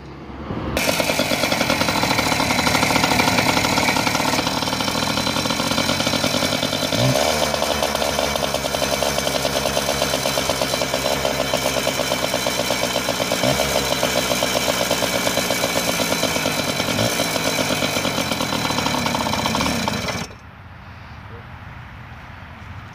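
Yamaha PW80's single-cylinder two-stroke engine running steadily on choke while it warms up, its pitch rising briefly a few times; it still wants the choke left on to keep running. About 20 seconds in it suddenly becomes much quieter.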